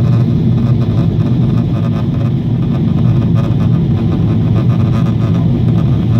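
Steady cabin noise of a Boeing 777 airliner in flight: a loud, even low drone of the jet engines and airflow.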